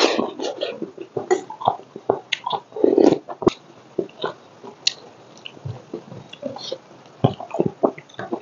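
Close-miked eating sounds: wet chewing and lip smacking with many irregular clicks, as a person chews a mouthful of rice and vegetables eaten by hand.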